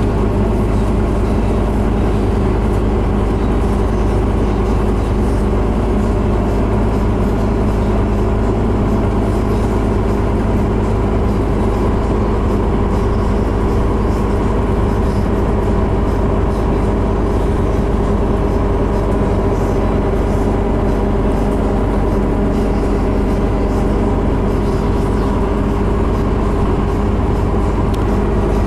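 Scania CN270UB city bus under way, its engine holding a steady note over road noise with no revving up or down.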